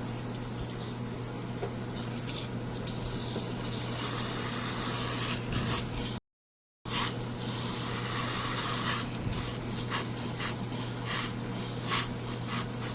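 Steam hissing from the open steam release of a Retrol scale model steam engine's hot boiler, with scattered clicks and knocks as the engine is started. The sound drops out for about half a second roughly six seconds in.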